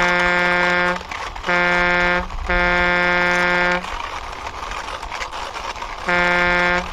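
A buzzy electronic truck horn honking in long, even blasts of one steady pitch, three in quick succession. After about two seconds of low rumbling, two more blasts come near the end.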